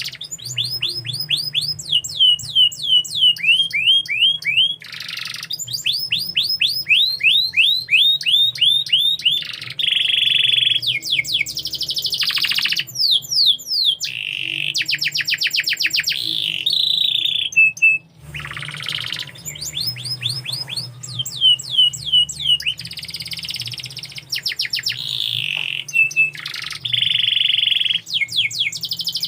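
Domestic canary singing on and on: fast runs of the same short falling note repeated many times, alternating with rolling trills, with a brief pause about eighteen seconds in.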